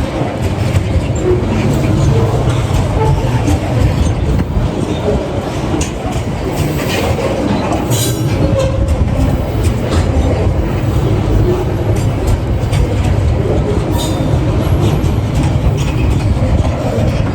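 Freight train wagons rolling past: a steady loud rumble with wheel clatter over the rail joints and a brief high wheel squeal about seven to eight seconds in.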